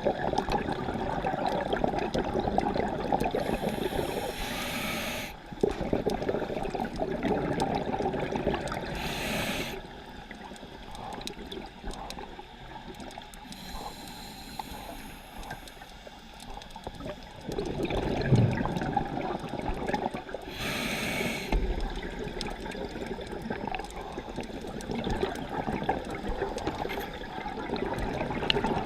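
Scuba diver breathing through a regulator underwater. Each inhale is a short hiss, followed by a longer burst of bubbling exhaust on the exhale, about four breaths in all; the breathing is quieter for several seconds in the middle.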